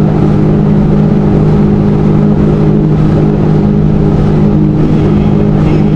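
Jet ski engine running steadily at cruising speed, with wind rumbling on the microphone.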